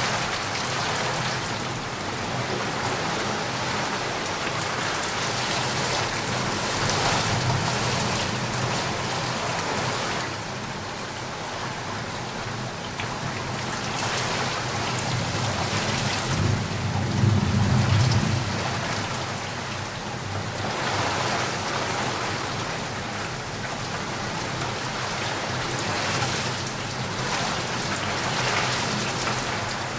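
Steady rain falling, with a low rumble of thunder rolling in just past halfway and fading a few seconds later.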